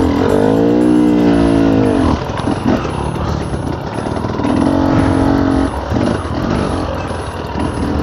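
Enduro dirt-bike engine revving hard in bursts: it rises and falls in pitch over the first two seconds, then runs choppily at lower revs, and holds a steady high rev for about a second around five seconds in.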